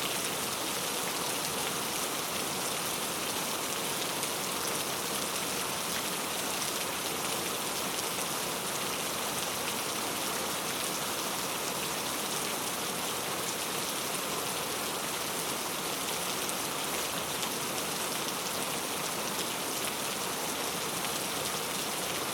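Steady rainfall, an even hiss of many raindrops pattering on a surface.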